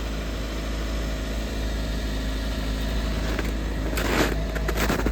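Hyundai Sonata engine idling steadily just after a cold start in subfreezing weather, running in a way its owner says did not sound happy.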